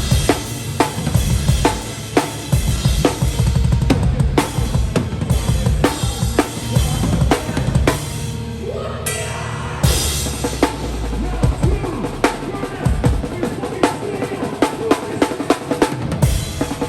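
Hardcore/metalcore band playing live, with the drum kit loudest: fast kick-drum, snare and cymbal hits over heavy guitars. About nine seconds in the cymbals drop out briefly and a short rising slide is heard before the full band comes back in.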